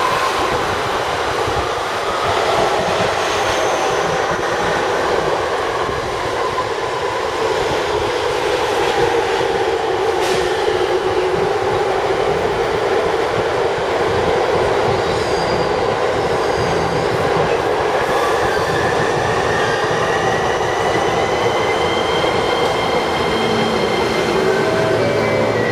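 JR East suburban electric train in Shonan orange-and-green livery pulling in along the station platform, its wheels rumbling on the rails. Over it runs the electric motor's whine, gliding down in pitch as the train slows.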